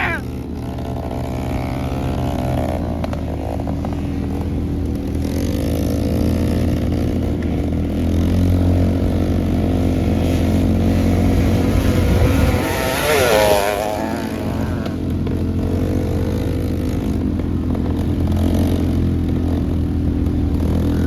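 Pit bike engine running under way, a steady drone with small rises and falls in revs. About thirteen seconds in, a louder wavering note swells and fades.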